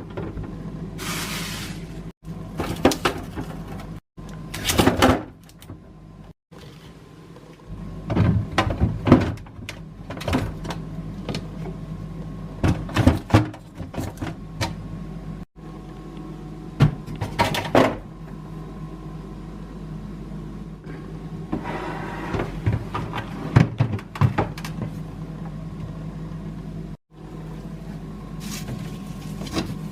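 Plastic storage containers and food packaging being handled and set down: scattered clicks, knocks and short stretches of rustling over a steady low hum, with a few brief dropouts.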